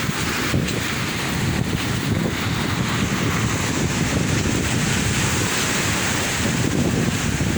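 Sea waves washing on the shore, a steady surf with wind buffeting the microphone.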